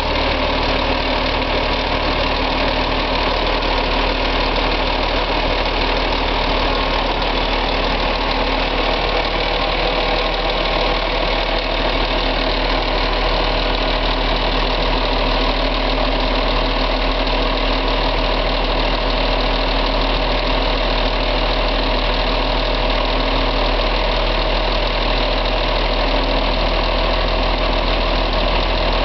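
Diesel engine of an RVI PR 180 MIPS articulated bus idling steadily; its low hum shifts slightly about ten seconds in and again near the end.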